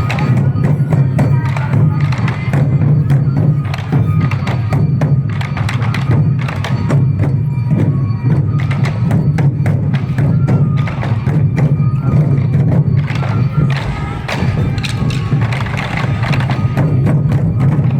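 Sansa odori festival music: many taiko drums struck together in a fast, steady rhythm, with bamboo flutes playing a melody over the drumming.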